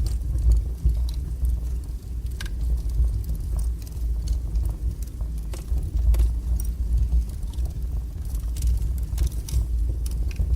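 Wood fire burning strongly in a fireplace: a steady low roar with scattered crackles and pops throughout.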